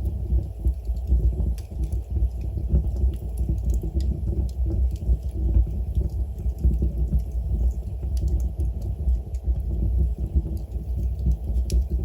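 Wood logs burning in a fireplace: a steady low flutter of flames with frequent small crackles and pops.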